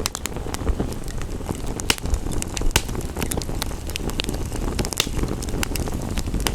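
Wood fire crackling and popping in a fireplace: sharp irregular snaps over a steady low rumble of the burning fire, with a soft hiss of rain underneath.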